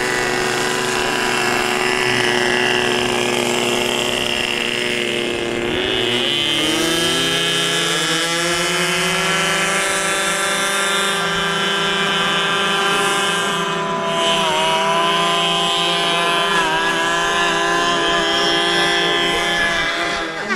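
RC airboat's in-line model engine running steadily under throttle. Its pitch drops and climbs back to a higher steady note about six seconds in, then dips briefly twice in the second half and once more at the end as the throttle is eased and reopened.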